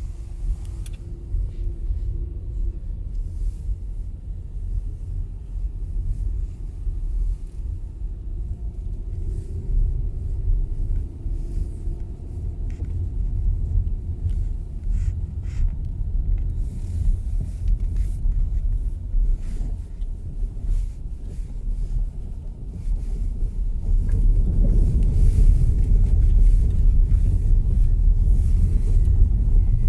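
Car interior road and engine noise while driving: a steady low rumble that gets louder about three-quarters of the way in.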